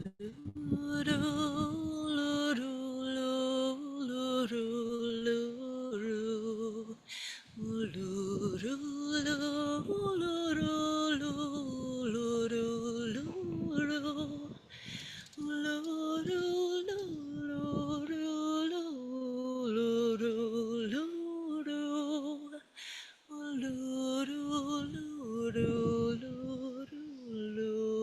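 A single voice singing a slow, unaccompanied melody with long held, wavering notes and short breaths between phrases.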